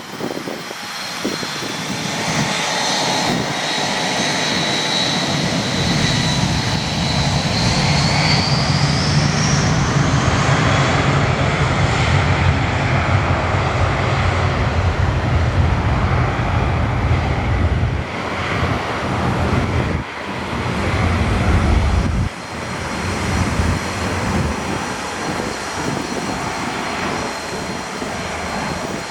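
Jet engines of an Airbus A320-family airliner: a whine rising in pitch over the first several seconds, then a deep rumble that builds, stays loud through the middle and eases off near the end.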